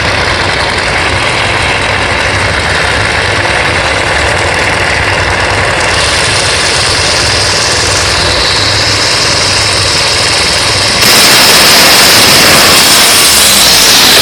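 Nitro funny car's supercharged V8 drag-racing engine running loud and steady, getting abruptly louder and harsher about eleven seconds in.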